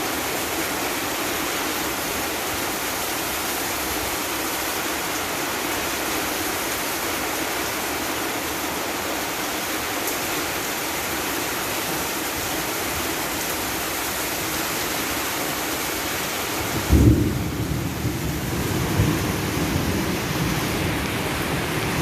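Heavy rain and wind with a steady hiss, then a sudden loud clap of thunder about three-quarters of the way through that rolls on as a rumble for a few seconds.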